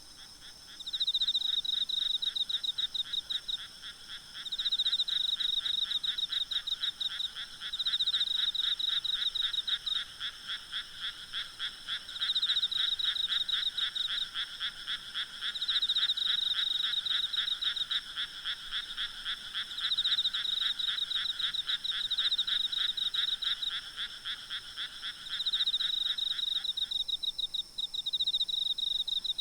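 A night chorus of frogs calling in rapid pulsed trills. One voice comes in bouts of two to three seconds every three or four seconds, over a lower continuous trilling that stops about 27 seconds in. A steady high chorus of insects runs underneath.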